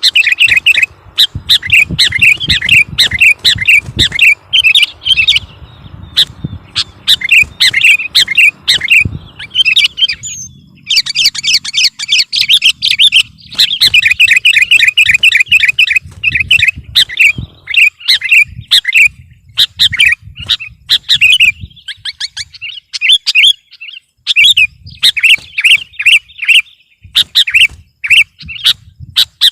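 Sooty-headed bulbul (kutilang) singing vigorously: rapid runs of short chirped notes, repeated phrase after phrase with only brief pauses.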